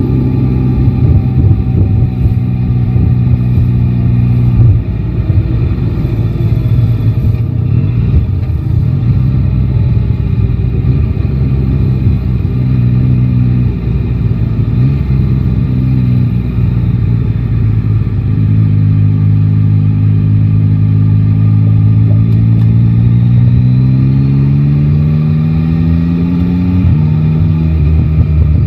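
Yamaha Tracer 9 GT's inline-three engine running through city riding. Its note holds steady for long stretches, then rises in pitch as the bike accelerates near the end and drops suddenly at a gear change.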